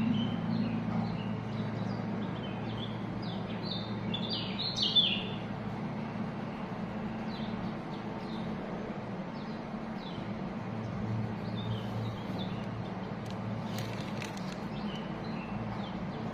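A flock of white-eyes (pleci) chirping: many short high calls overlapping, busiest in the first five seconds and then thinning out, over a steady low hum. A few sharp clicks come near the end.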